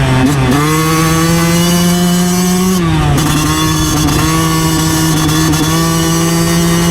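2009 Yamaha YZ125 dirt bike's 125 cc two-stroke single-cylinder engine running under way. The revs dip sharply just after the start and climb slowly, then drop to a lower steady pitch about three seconds in and hold there.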